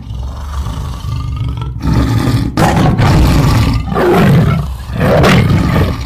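Loud, deep animal roaring in several swelling bursts, getting louder about two seconds in.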